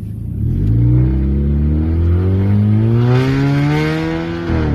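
2016 Dodge Dart with its muffler cut off, accelerating: the engine's exhaust note rises steadily in pitch, then drops sharply with a gear change near the end.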